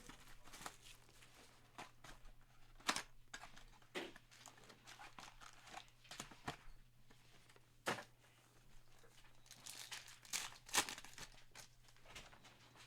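Trading card pack wrappers being torn open and crinkled, with short clicks and rustles of cards being handled.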